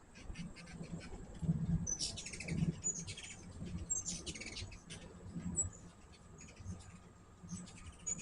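Hummingbirds at a feeder giving short, high chips and twittering chatter in several bursts, busiest about two and four seconds in, with a faint low hum underneath.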